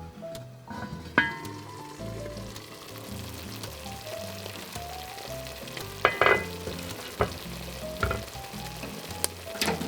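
Food sizzling in a hot frying pan, starting about a second in, with a utensil knocking against the pan several times, the loudest clatter about six seconds in.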